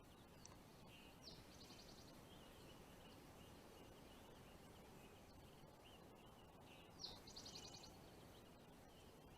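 Quiet outdoor ambience with a songbird singing twice, about six seconds apart: each phrase is a short rising note followed by a fast, even trill.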